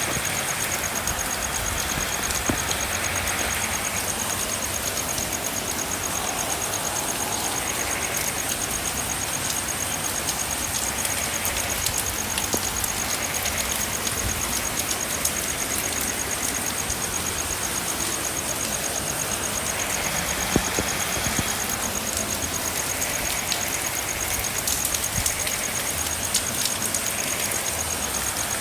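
Steady rain falling, with scattered sharper drop ticks and frogs calling now and then.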